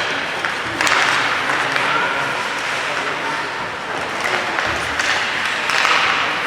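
Spectators at a youth ice hockey game clapping and shouting, a steady crowd noise that swells about a second in and again near the end.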